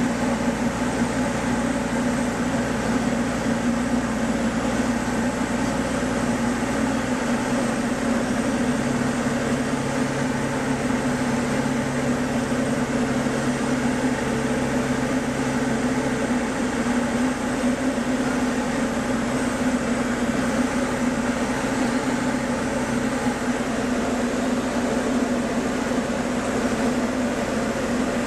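Small plane's engine and propeller droning steadily during the landing approach, with the lowest hum shifting about seven seconds in and again about sixteen seconds in.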